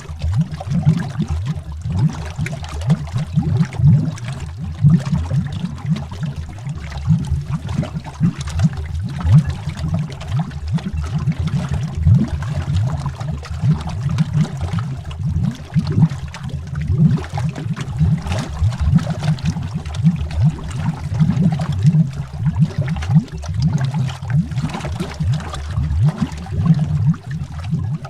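Underwater bubbles: a continuous, dense, irregular bubbling, mostly low in pitch.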